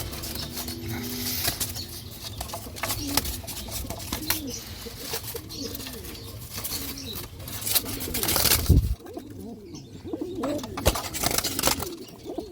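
Pigeon or dove cooing over and over, low soft arching calls, with scattered clicks and rustling.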